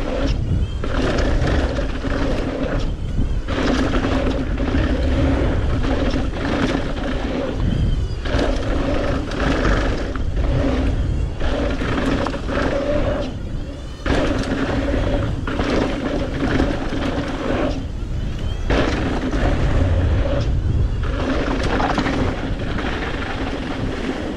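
Mountain bike ridden fast along a jump line: heavy wind rush on the microphone with a steady hum of tyres rolling. The noise breaks off for a moment several times, about every three to five seconds.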